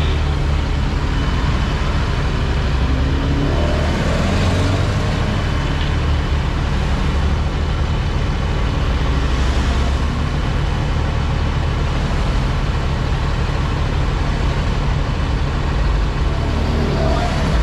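Motor vehicle engines running with a steady low rumble, amid road traffic noise.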